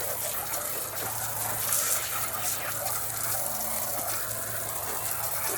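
Water gushing steadily, with a steady low hum underneath.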